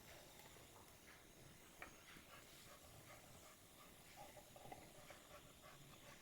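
Faint sounds of an American Bully dog tearing and chewing the fibrous husk off a coconut: scattered soft crackles and rips.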